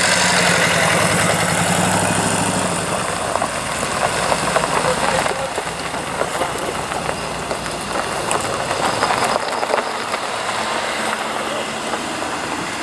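Classic car engine running at low revs, its steady hum fading about three seconds in, leaving a general mix of car engine noise.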